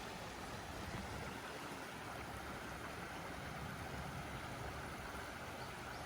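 Steady rushing of a mountain valley stream flowing over rocks.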